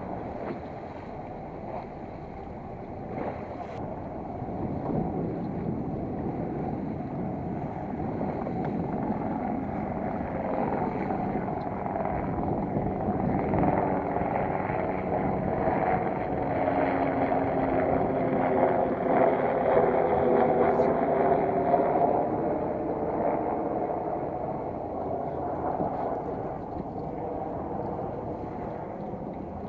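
Fishing boat's engine running under way, with wind and water noise. It grows louder toward the middle and then eases off.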